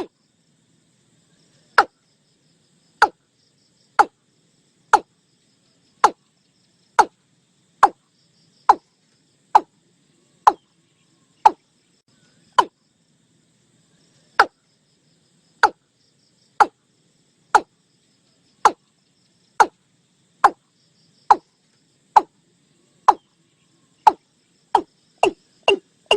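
Watercock calling: a long series of short, sharp notes, each falling quickly in pitch, about one a second, coming faster near the end.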